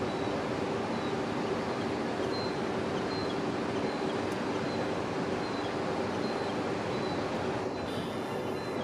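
Steady rumble and low hum of a train at a railway station platform, with faint short high-pitched squeaks every half second or so and a brief hiss near the end.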